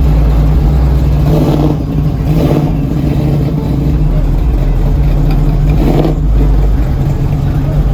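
Car engine running with a deep, steady rumble. Faint voices are heard in the background.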